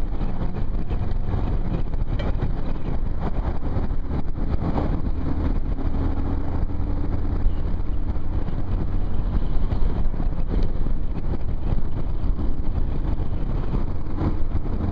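Motorcycle engine running steadily while riding, with wind noise rushing over the helmet microphone.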